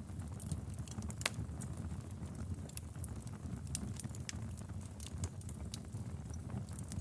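Fireplace fire crackling: irregular sharp pops over a steady low rumble of flames, with the loudest crack just over a second in.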